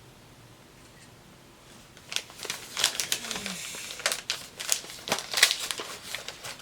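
Gift-wrap paper crinkling and rustling in quick, sharp bursts as a present is unwrapped, starting about two seconds in.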